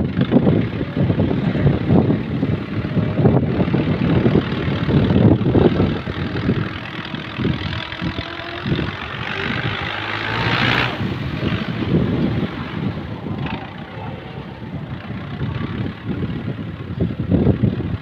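Tractor engine running with a dense, pulsing low rumble, louder in the first six seconds and then easing off, with a short hissing noise about ten seconds in.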